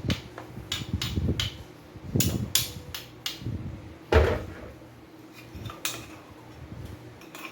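Kitchen handling clatter: a run of short knocks and clicks from utensils and containers being moved and set down, with one heavier thump about four seconds in.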